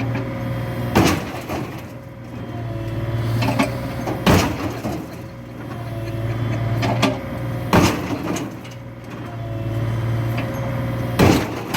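A vehicle engine running steadily, swelling and easing, with four loud bangs about every three and a half seconds.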